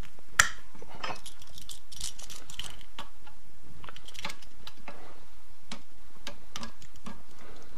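Scattered metallic clicks and clinks of hand tools gripping and loosening the trigger assembly on a Titan SGX20 airless spray gun, with one sharper click about half a second in.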